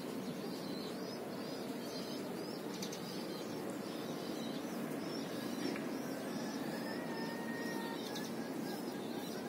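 Small birds chirping repeatedly over a steady low background rush of outdoor air, with a faint, thin steady tone for about three seconds midway.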